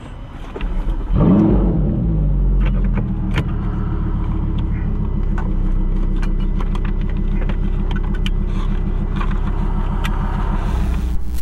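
Lamborghini engine starting: it catches about a second in with a rev flare that falls back to a steady, even idle. Light scattered clicks sound over it.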